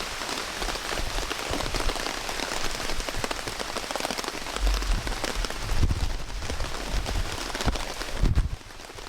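Heavy rain falling, a dense patter of drops close to the microphone, with low rumbles swelling in around five to six seconds in and again near the end; the level drops suddenly about eight and a half seconds in.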